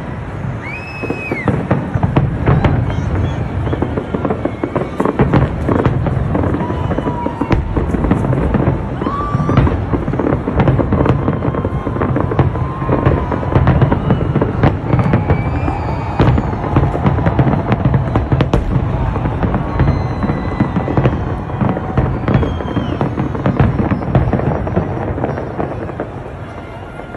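A New Year's fireworks display: a dense run of bangs and crackles over a continuous low rumble of bursts, with voices and music mixed in underneath.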